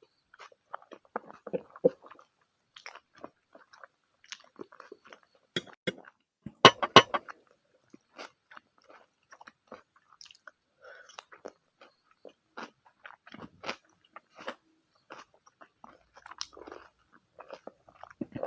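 Close-miked chewing and biting of spicy pork, egg and Maggi instant noodles: irregular short mouth clicks and bites, loudest in a quick cluster about six to seven seconds in.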